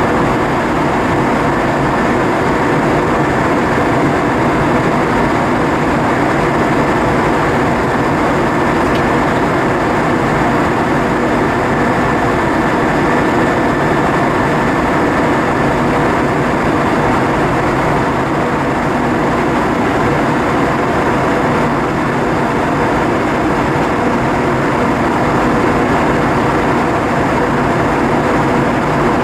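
Steady cabin noise inside an Airbus A320-232 in flight: a constant rush of airflow and IAE V2500 turbofan engine noise, with a couple of faint steady tones running through it.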